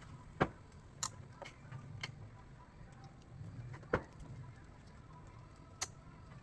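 A handful of sharp, irregular clicks, about five in all, from a pressure washer spray gun's trigger being pressed while the washer does not start up.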